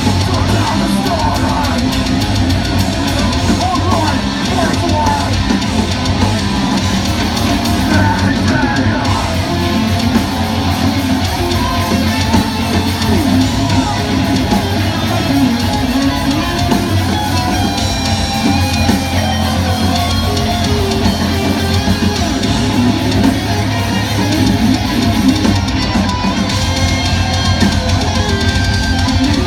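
Live heavy metal band playing at full volume: distorted electric guitars over a drum kit, loud and steady.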